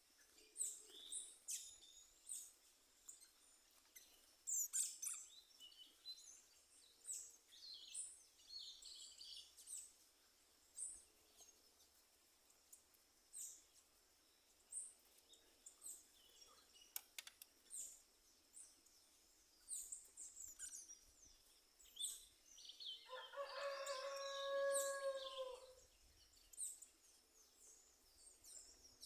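Birds singing: many short, high chirps and twitters throughout, faint. Near the end, one longer, lower call of about two and a half seconds stands out as the loudest sound.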